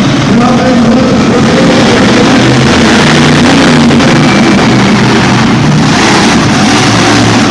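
Monster truck engine running loud, its pitch rising and falling as it revs.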